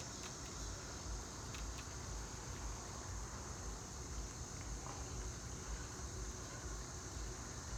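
Night-time outdoor ambience: a steady high-pitched insect chorus over a low, uneven rumble, with a few faint clicks.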